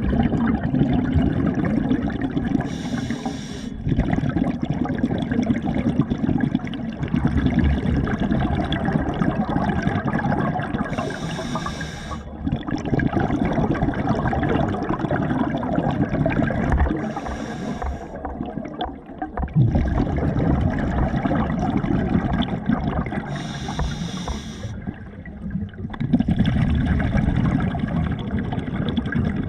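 Water sloshing and gurgling close around the microphone, a continuous churning rumble broken by a brief hissy splash about every six to eight seconds.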